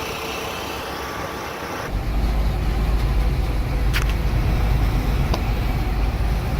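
A vehicle's engine running steadily. About two seconds in, a much heavier, deep low rumble takes over, as of a truck driving, with a single sharp click partway through.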